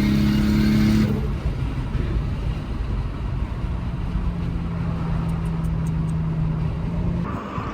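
Toyota 2JZ turbocharged straight-six engine running at steady revs for about a second, then dropping off. From about three and a half seconds in it settles into a lower, steady drone.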